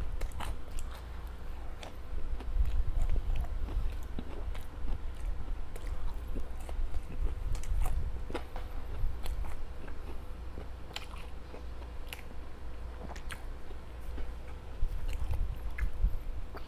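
Close-miked chewing and biting of homemade fish balls and veggie balls, with scattered small crunches and wet mouth clicks throughout.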